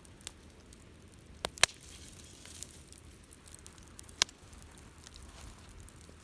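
Campfire burning, with scattered faint crackles and a few sharp pops from the burning wood, the loudest about a second and a half in and another about four seconds in, and a soft hiss just after two seconds.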